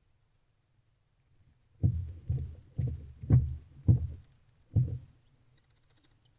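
Six dull thumps and knocks in quick succession from barn owls moving about on the floor and walls of a wooden nest box.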